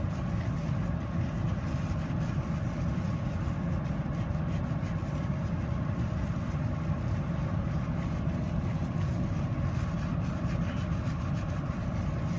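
Steady low rumble of an idling vehicle engine, even and unchanging throughout.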